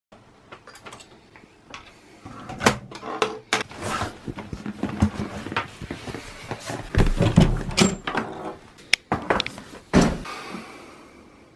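Household handling noises in a small room: scattered clicks, knocks and rustling, like drawers or doors and things being moved about, with louder thumps about seven and ten seconds in.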